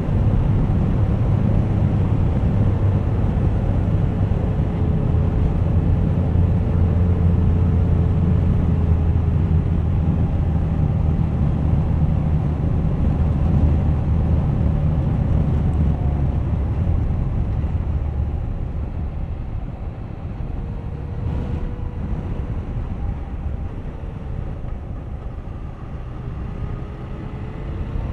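Suzuki GSX1250FA motorcycle's inline-four engine running on the move, with wind and road noise on the camera. The low rumble eases about two-thirds of the way in, and the engine tone rises again near the end.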